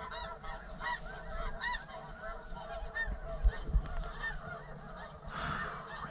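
Dense chorus of snow goose calls: many overlapping short, high yelping honks without pause. A couple of low bumps about halfway through and a short rustling rush near the end.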